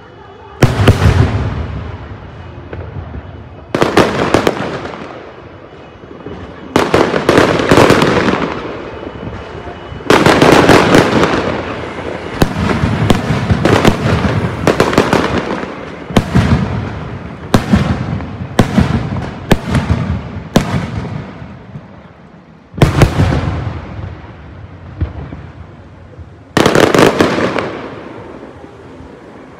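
Aerial fireworks shells bursting one after another, each a sharp bang followed by a crackling tail that fades away. There are more than a dozen bursts, coming closest together in the middle.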